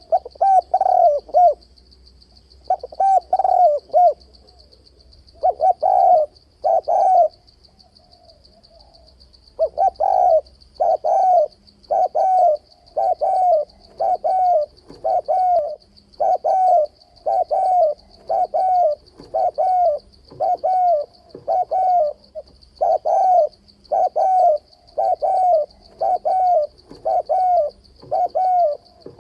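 Male spotted dove cooing: short groups of coos with pauses at first, then from about ten seconds in a steady unbroken run of coos, roughly three every two seconds. This is the challenge call used to lure rival males into a fight trap.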